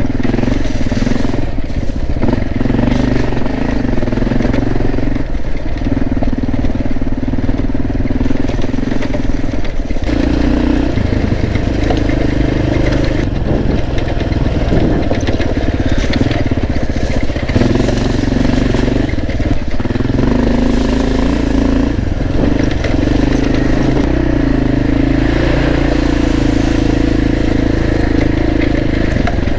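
Motorcycle engine running under way, the revs rising and falling repeatedly as the rider works the throttle.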